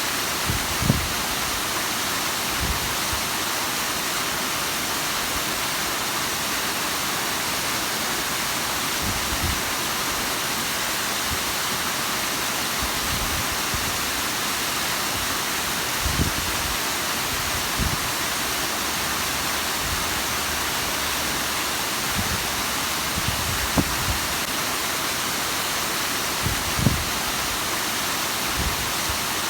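Bigăr waterfall: water falling and splashing in a steady, unbroken rush, with a few brief low thumps now and then.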